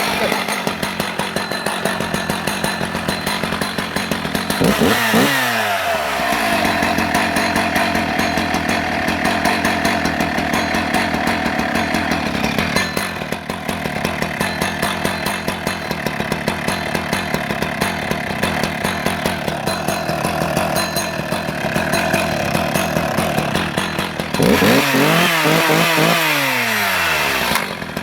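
Husqvarna 268 XP two-stroke chainsaw engine idling steadily, revved up and back down once about five seconds in, then blipped several times in quick succession near the end.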